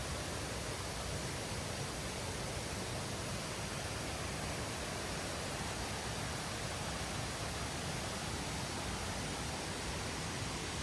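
Steady rush of flowing water, an even hiss without breaks or distinct splashes.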